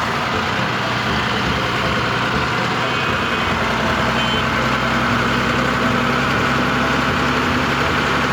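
Engine running steadily, starting abruptly.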